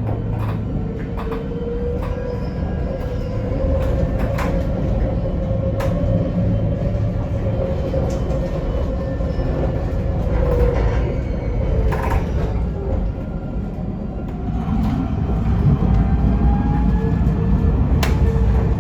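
Alstom Citadis tram running on rails, heard from on board: a steady low rumble of wheels on track with a wavering whine from the drive and scattered sharp clicks.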